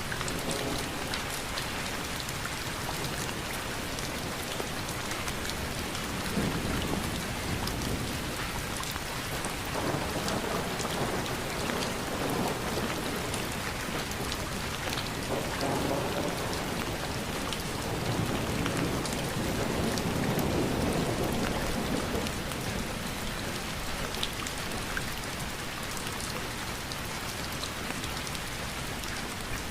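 Steady rain pattering on surfaces, an even hiss with scattered drop ticks. Low rumbles swell up under it several times, the strongest around twenty seconds in.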